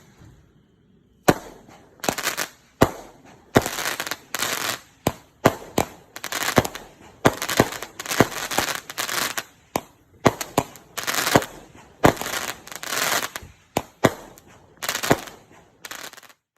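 A Weco consumer firework battery firing shot after shot, each a sharp bang followed by a short hiss or crackle, at about one to two shots a second. The firing cuts off suddenly near the end.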